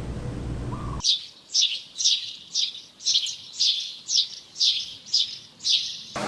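A bird chirping in a steady series of about ten short, high, falling notes, roughly two a second, starting abruptly about a second in after a low steady hum.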